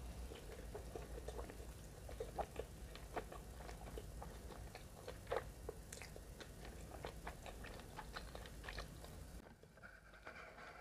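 Close-miked chewing of a mouthful of food: many small, sharp, wet clicks and crunches. It falls quieter about a second before the end.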